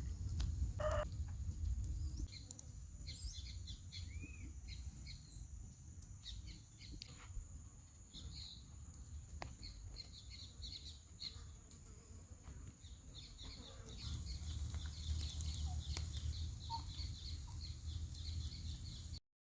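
Birds chirping, many short high calls over a low steady rumble, with a single lower call about a second in; the rumble grows louder in the last few seconds before the sound cuts off.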